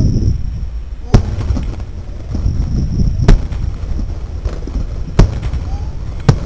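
Fireworks bursting: four sharp bangs roughly two seconds apart, over a steady low rumbling noise.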